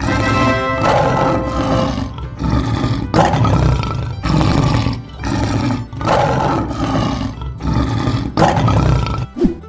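A lion roaring again and again, loud rough roars coming about one a second.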